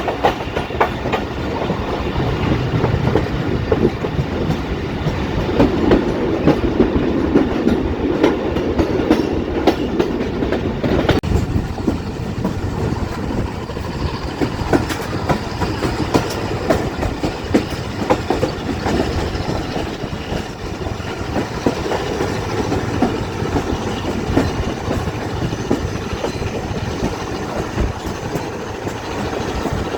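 Passenger train running on the line, heard from on board: a continuous rumble of steel wheels on rail with a dense clatter of clicks over the joints, its character shifting slightly about eleven seconds in.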